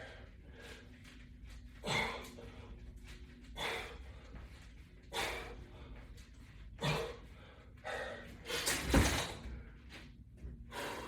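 A man's short forceful breaths, one about every second and a half, in rhythm with repetitions of a resistance-band pull.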